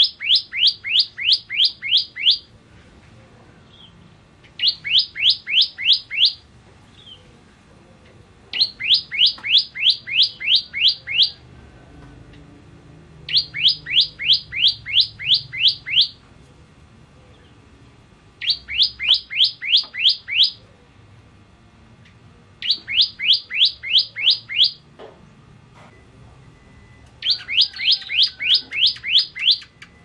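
Bar-winged prinia (ciblek kristal) singing: seven bursts of rapid, evenly repeated high, sharp notes, about four a second, each burst lasting about two seconds with short pauses between.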